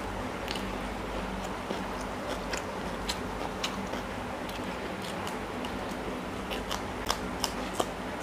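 Close-up crunchy biting and chewing of raw cucumber slices and green chillies: a string of sharp crisp crunches, loudest near the end, over a steady low background hum.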